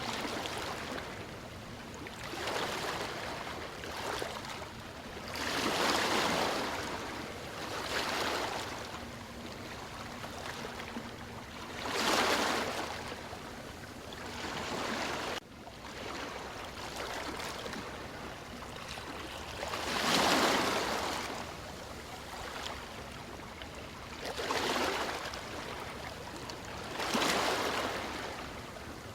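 Ocean waves breaking and washing up a shore, swelling loudly every few seconds over a steady hiss of surf. There is one sudden dip in level about halfway through.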